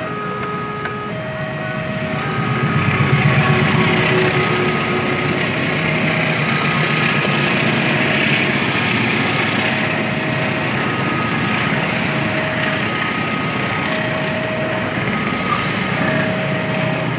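A level-crossing warning signal alternates between a high and a low tone about once a second. Over it, a passing train's locomotive engine and wheels on the rails rumble, swelling about two to three seconds in and staying loud.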